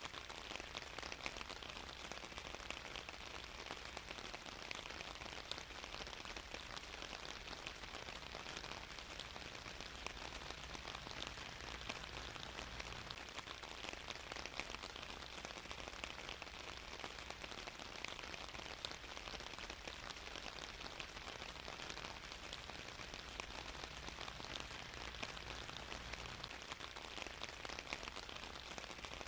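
Steady rain falling on a surface, an even patter of many fine drops with no change in intensity.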